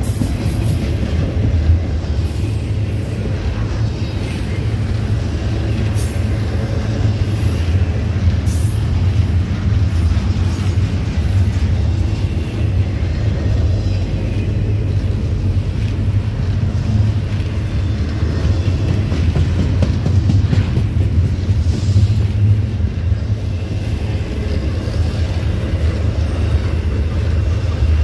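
Intermodal freight train of double-stack container cars and trailer flatcars rolling past, a steady low rumble of steel wheels on rail with scattered sharp clicks.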